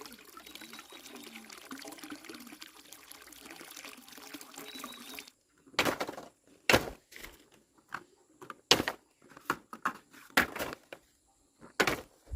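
Water pouring or trickling steadily, cutting off suddenly about five seconds in. Then come about seven sharp knocks or thumps, irregularly spaced and louder than the water.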